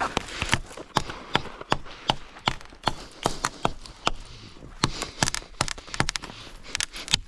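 Knife blade chopping at a thin wooden stick, a quick series of sharp knocks at about three a second.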